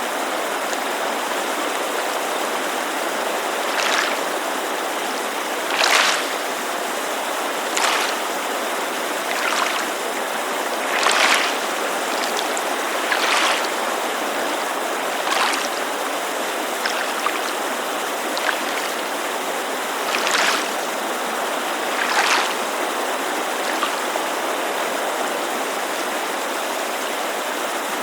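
Steady rushing white noise of a mountain creek with small waves lapping against a lakeshore, a brief gentle splash about every two seconds that stops near the end.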